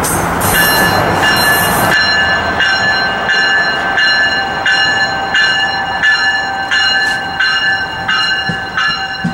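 Train passing: a loud rush of noise for about two seconds, then steady high ringing tones that pulse in a regular beat about one and a half times a second.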